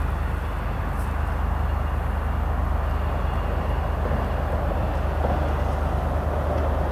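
A freight train rolling past with the steady low throb of diesel locomotive engines running.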